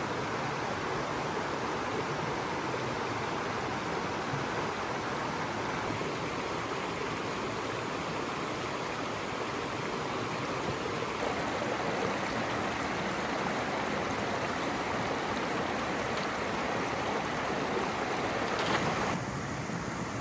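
Steady rushing water of a stream or waterfall. Its hiss turns duller a second before the end.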